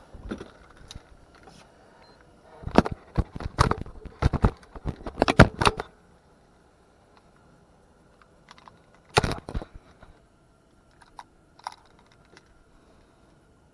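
Clattering clicks and knocks: a dense run of sharp taps for a few seconds, another short burst later, then a few faint ticks.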